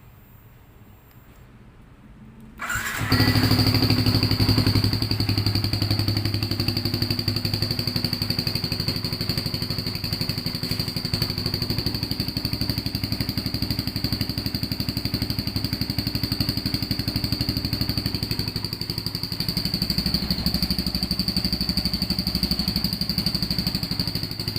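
Motorcycle engine starting about two and a half seconds in, then running steadily, with a steady high whistle from a turbo whistle (fake turbo) fitted in its hollowed-out exhaust.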